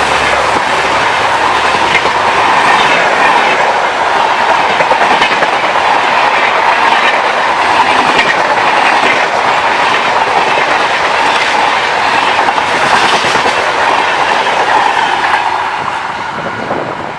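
Coaches of a Rajdhani Express passing at speed: a loud, steady rush of wheels on rail with clickety-clack, which starts to fade in the last couple of seconds as the train goes by.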